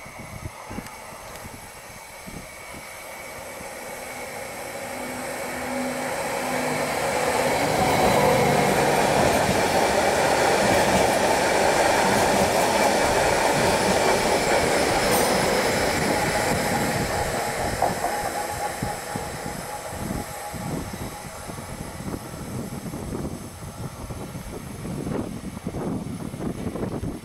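Leo Express Stadler Flirt electric multiple unit running along the platform: wheels and motors growing louder over the first eight seconds, loudest for about eight seconds as it passes, then fading away as it pulls off.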